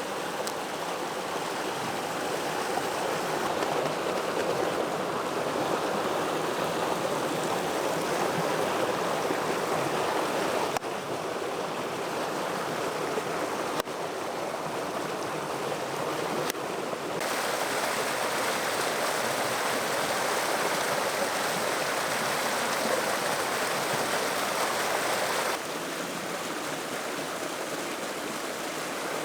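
Steady rushing of a nearby stream, with sudden shifts in loudness about 11, 14, 17 and 26 seconds in.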